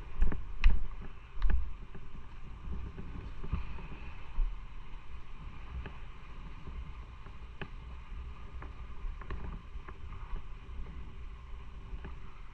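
Motorcycle on the move: a steady low rumble of engine and road noise on the bike-mounted microphone, with a few sharp knocks in the first couple of seconds.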